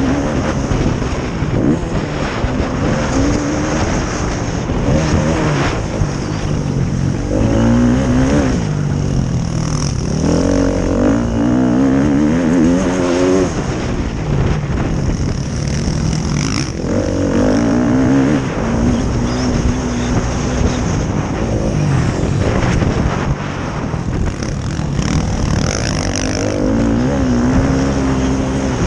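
Several motocross bikes racing, their engines repeatedly revving up in rising pitch and dropping back as the riders shift and work the throttle.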